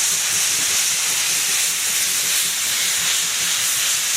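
Steam hissing from a C58 steam locomotive, a loud, even, unbroken hiss without exhaust beats.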